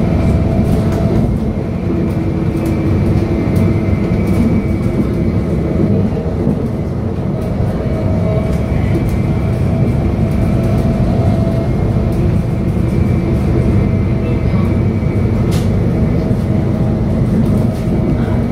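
Stadler FLIRT electric multiple unit running steadily along the line, heard from on board. There is a dense rumble of wheels on track and steady whining tones from its electric traction equipment.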